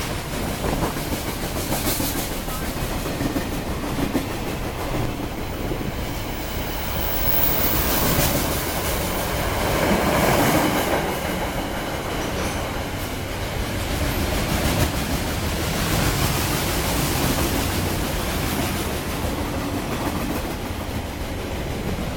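Freight train rolling past, its wagon wheels clicking rhythmically over the rail joints. The noise swells to its loudest about ten seconds in.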